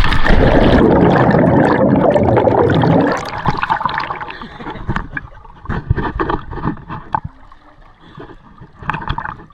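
Water rushing and splashing loudly for about three seconds, then quieter with scattered knocks and taps.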